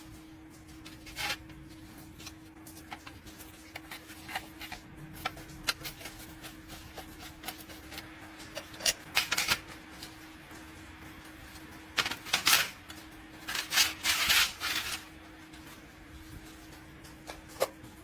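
Irregular clicks and clinks of tools and small metal parts being handled during engine repair work, with louder clusters of clatter about nine seconds in and again from twelve to fifteen seconds. A steady faint hum runs underneath.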